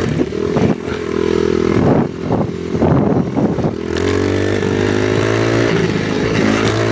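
Off-road vehicle engine running under changing throttle, with sharp knocks and clatter over the first few seconds. From about four seconds in, the engine runs steadier and climbs slightly in pitch.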